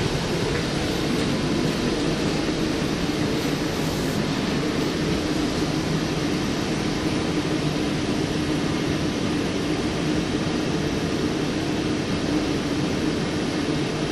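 Steady running noise inside a moving GYSEV Ventus electric train, with an even drone of the train in motion and a steady low hum.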